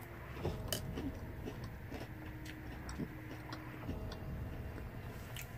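Close-up chewing of a mouthful of crunchy French toast cereal: small irregular crunches and clicks at a slow, uneven pace.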